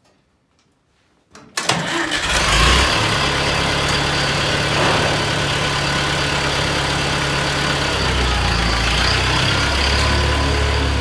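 A vehicle engine starting up about a second and a half in, then running at a steady idle.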